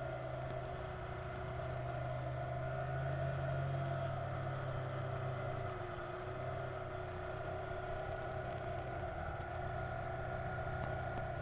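Vehicle engine running steadily at an almost constant pitch, as when cruising, with road and wind noise.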